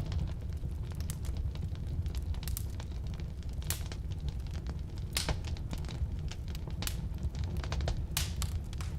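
Firewood burning in a fireplace: a steady low rumble of flame with scattered sharp crackles and pops, the loudest about four, five and eight seconds in.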